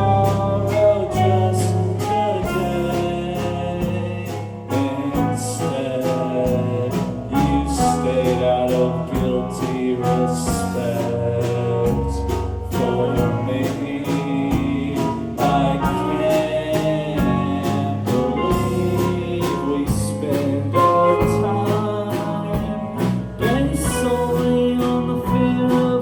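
Live band music: a singer's voice over guitar and a steady rhythm, playing on without a break.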